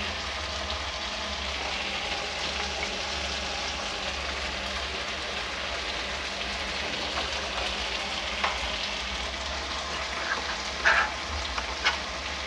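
Okra, onions and tomatoes sizzling steadily as they fry with spice powders in a metal kadhai over a gas flame, with a few light clicks in the last few seconds.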